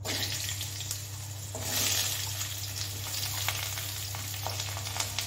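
Sliced potatoes going into hot mustard oil in a metal kadhai, the oil hissing and sizzling as they hit it. The sizzle starts abruptly, swells louder about two seconds in, then settles into a steady frying sizzle.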